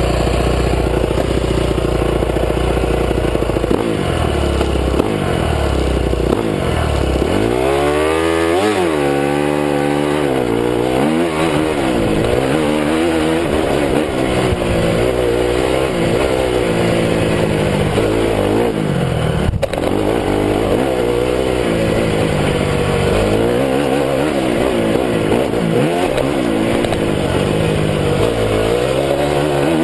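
2009 Honda CRF250 dirt bike's four-stroke single-cylinder engine being ridden hard. It runs low and fairly steady at first, then revs up and drops back again and again, the pitch climbing and falling every second or two.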